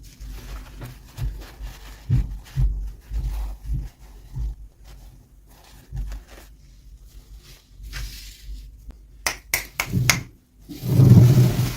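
Hands unboxing small toys: scattered soft taps and knocks, a few sharp clicks about nine to ten seconds in, and a louder rubbing thump near the end.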